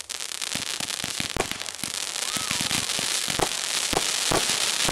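Fireworks going off: a rapid, irregular run of sharp pops and bangs over a crackling hiss that grows denser and louder as several shots rise and burst into crackling stars.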